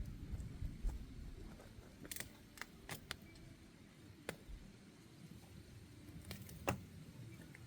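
Scattered light clicks and knocks of small objects being handled, with the sharpest click near the end, over a faint low rumble.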